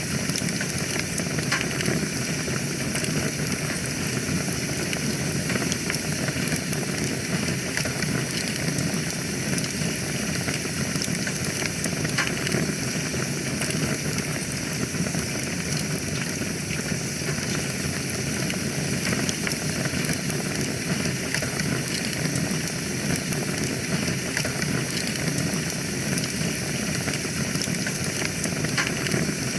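Wood fire burning in a fireplace: a steady hiss and low rumble of flames with scattered small crackles and pops.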